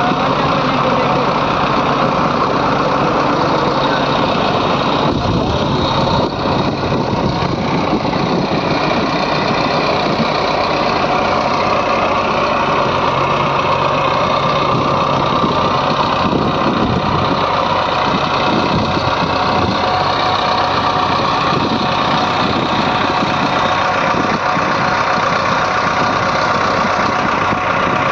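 Diesel engines of a JCB 3DX backhoe loader and farm tractors running steadily at working revs.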